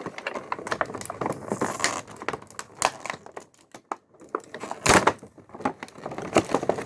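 Packaging and small parts being handled: crinkling plastic and a run of light clicks and taps, with a sharper knock about five seconds in.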